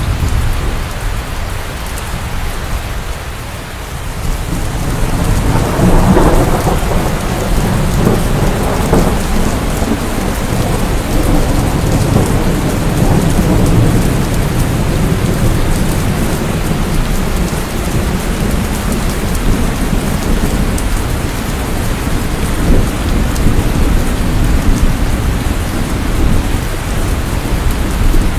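Steady heavy rain with thunder. A long, low rumble of thunder builds about five seconds in and rolls on for several seconds under the rain.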